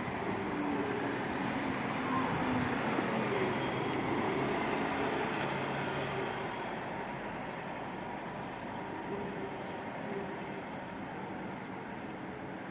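Scania Citywide CNG city bus running on its gas engine as it passes, loudest a couple of seconds in and then slowly fading as it moves away.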